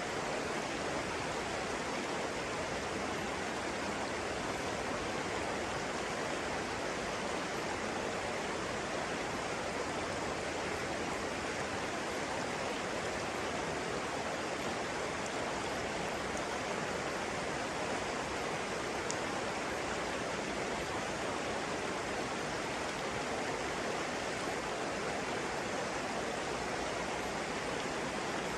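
Flowing water rushing steadily, like a stream or small waterfall.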